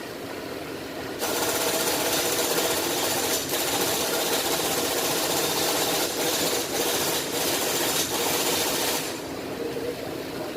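A pressurised spray hissing for about eight seconds, broken by a few brief gaps, over a steady engine hum.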